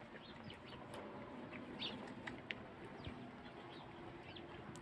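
Domestic pigeons in a rooftop loft, heard faintly: low coos with scattered short, high bird chirps.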